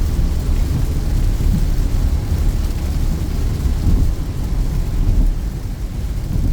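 Car cabin noise while driving in heavy rain: a steady low rumble of tyres on the wet road and the engine, with the rain's hiss over it.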